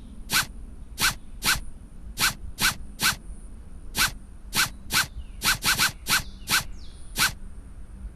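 Game sound effects for a cat's rope-chasing game: about fifteen short, sharp hiss-like strokes, each with a brief rising chirp, coming singly or in quick runs of two or three at uneven spacing.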